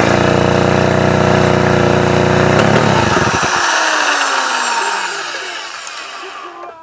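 Suzuki Address V100's two-stroke engine, run off the scooter with the coil wired directly to the generator, firing and running loudly and steadily, then cutting out about three seconds in and winding down with falling pitch.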